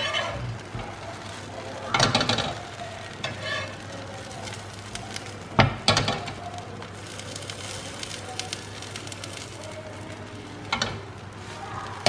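Halved pav buns sizzling steadily as they toast in melted butter on a flat griddle pan. A slotted metal spatula scrapes and knocks sharply against the pan a few times as the buns are turned.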